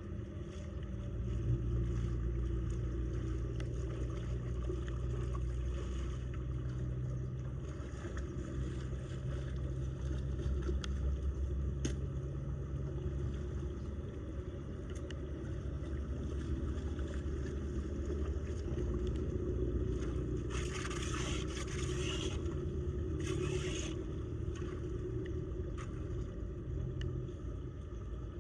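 Floodwater draining down a storm drain with a steady low rumble, with faint scrapes and two short hissing splashes near the end.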